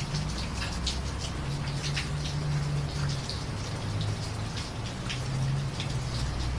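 Steady rain with many separate drops ticking and splashing, over a low drone whose pitch shifts a few times.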